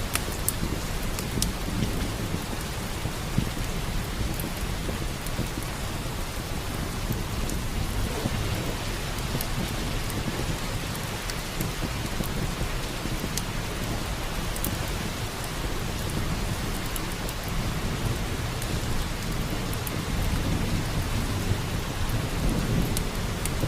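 Steady heavy rain with a low rumble of thunder underneath, and scattered sharp crackles from a wood fire in a fireplace.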